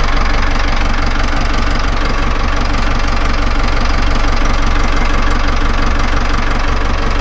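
Marine diesel engine running steadily with a fast, even clatter, left to run after its fuel system was bled of air following running out of diesel.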